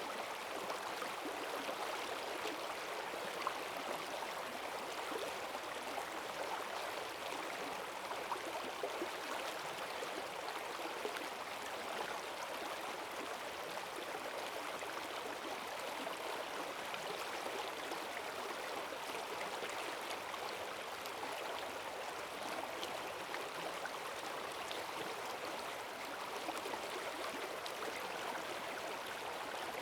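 Forest stream in spate after heavy rain, water rushing steadily over rocks with a constant splashing and gurgling.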